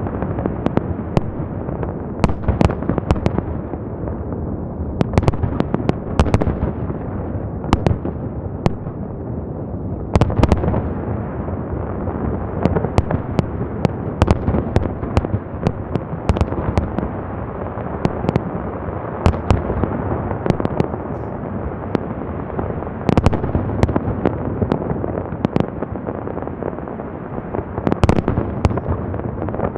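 Festive salute fireworks going off in quick succession: a dense, continuous rumble and crackle pierced by many sharp bangs, with heavier clusters of bangs about ten seconds in, again near the middle and near the end.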